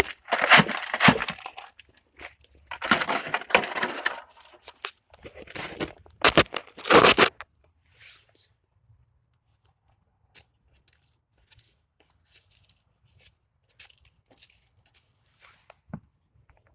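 Crusted ice and snow crunching and breaking up under a hand tool: several loud crunches in the first half, then fainter scattered crunches and scrapes.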